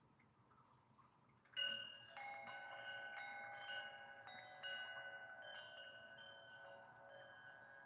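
Chimes ringing, struck suddenly about a second and a half in, then several more strikes over the next few seconds, the tones ringing on and slowly fading.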